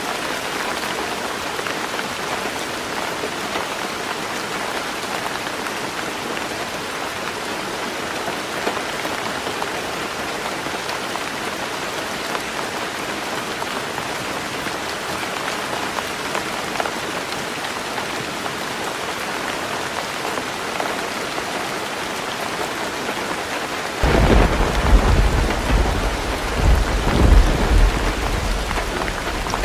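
Heavy rain falling steadily on a roof; about 24 seconds in a loud, low roll of thunder breaks in suddenly and rumbles on in swells to the end.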